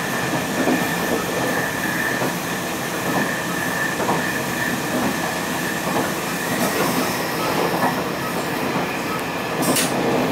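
Locomotive-hauled Taiwan Railway passenger train running along the line, heard from inside its rear coach: a steady rumble of wheels on the rails with a thin, steady high whine and scattered clicks over the track.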